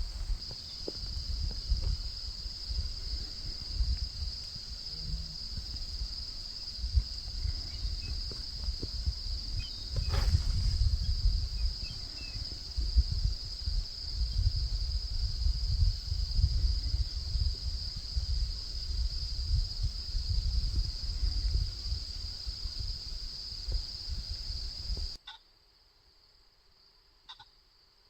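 Crickets chirring steadily in one unbroken high-pitched band, under a gusty low rumble of wind on the microphone. About 25 seconds in the sound cuts off abruptly, leaving only a faint trace of the insects and a single small click.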